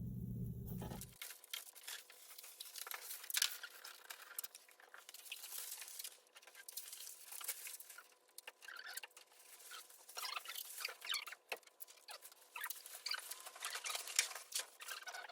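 Wrapping paper crinkling and rustling as it is handled, with irregular sharp crackles and clicks.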